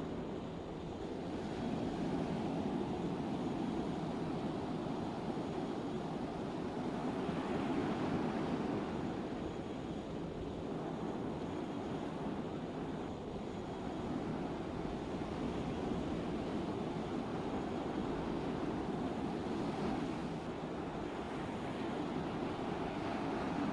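Steady low rushing drone of a cargo ship under way, engine noise and moving water blended together, swelling slightly now and then.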